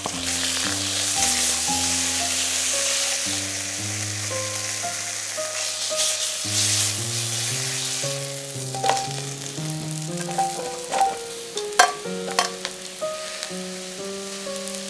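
Chicken breast sizzling in hot oil in an enamelled pot as it is turned with metal tongs, the sizzle strongest in the first half, over background music. Later a run of sharp clicks and knocks sounds against the pot.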